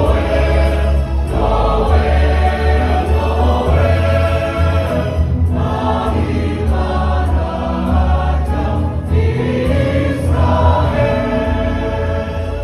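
A choir singing together in phrases, with a heavy low bass underneath.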